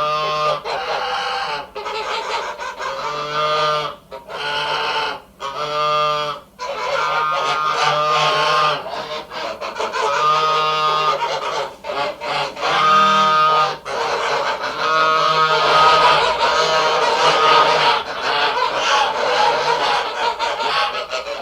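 Farmyard poultry calling: many short, pitched calls that repeat and overlap, as from a flock.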